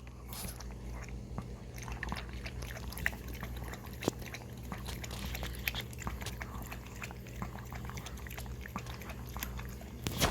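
A puppy lapping and licking water with many small, wet, irregular clicks, over a steady low hum.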